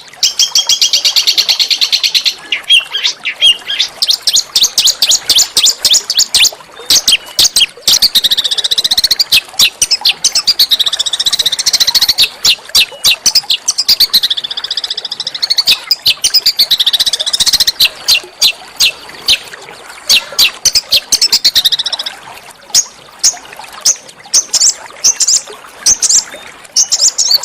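Small songbird singing fast, harsh song: rapid runs of sharp repeated chirps and trills, high-pitched and nearly continuous, the kind of rough 'shot' song used as tutor song for training magpie robins.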